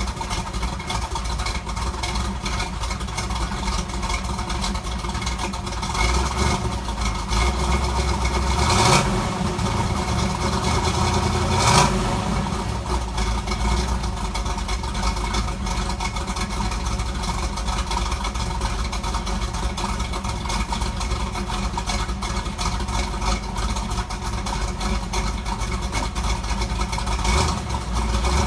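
1968 Camaro SS/RS's original 327 cubic-inch small-block V8, with a Comp 30-30H cam and stock exhaust, idling steadily while still warming up from a cold start. The throttle is blipped twice, a few seconds apart, about a third of the way in.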